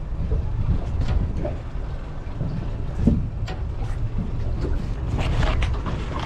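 Wind buffeting the microphone over the steady rumble of water around a small fishing boat at sea, with scattered short knocks and splashes, busiest about five seconds in.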